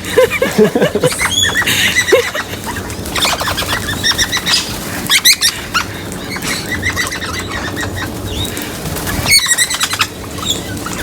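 Wild parrots calling in short, sharp high chirps, with wings flapping as they land and feed close by.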